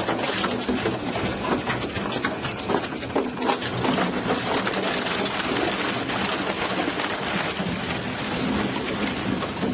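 Machinery working with a dense, steady rattling clatter and crackle, without a clear engine note.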